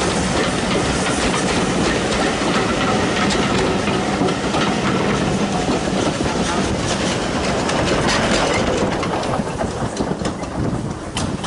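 A passing train of passenger coaches with a small Andrew Barclay tank engine at the rear. Its wheels make a steady rumble with a run of clicks over the rail joints, and the sound fades near the end as the train draws away.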